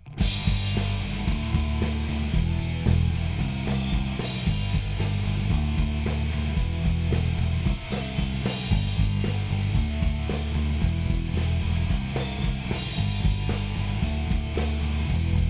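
Live rock band with drum kit, electric guitars and bass guitar playing an instrumental song intro at full volume, all coming in together at once right at the start.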